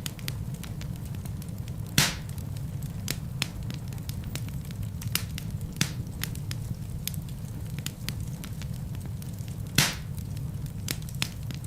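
Wood fire burning in a fireplace: a steady low rumble of flame with scattered small crackles. Two louder pops stand out, one about two seconds in and one near the end.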